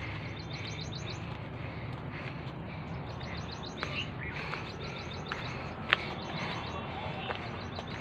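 Small birds chirping in repeated quick high runs of notes over a low steady rumble, with a few light clicks and one sharp click about six seconds in.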